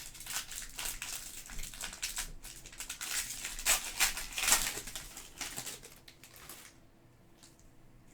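Foil wrapper of a trading card pack crinkling and tearing as it is opened, a run of quick crackles that dies down about two-thirds of the way through, leaving a few faint clicks.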